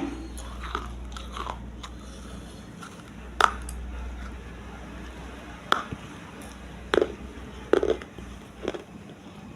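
Close-up biting and chewing of hard pieces of baked clay pot: a series of sharp crunches, irregularly spaced about one to two seconds apart, the loudest a little past three seconds in.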